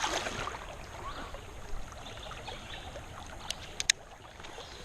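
Creek water running steadily, with a quick run of three or four sharp clicks about three and a half seconds in.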